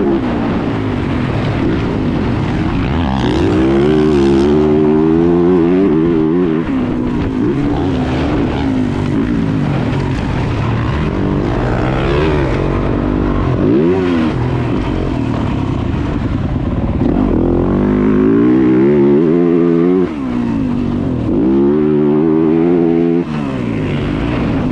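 Yamaha 450 dirt bike's single-cylinder four-stroke engine running hard. Its pitch climbs and falls again and again as the throttle is worked, and it drops off suddenly twice near the end.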